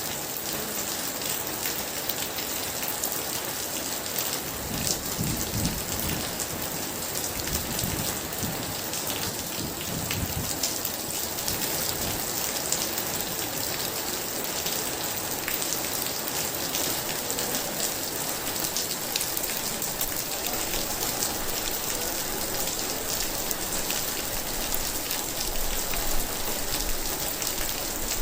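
Heavy rain falling steadily in a dense, even hiss, with a low roll of thunder from about five to eleven seconds in.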